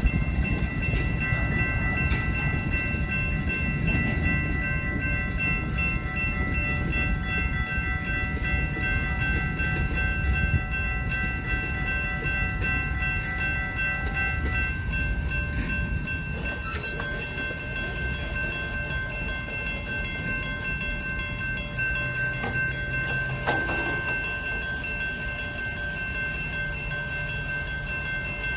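A train running past with a steady low rumble and several steady high-pitched tones held over it. Some of the tones stop about halfway through, and the rumble eases slightly toward the end.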